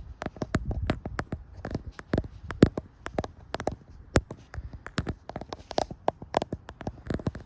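Rapid, irregular tapping on a hard surface: many sharp clicks, several a second.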